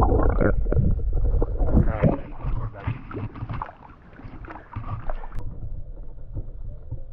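Water splashing and sloshing at the lake surface, with wind gusting on the microphone; the splashing is busiest in the first five seconds and eases off after that.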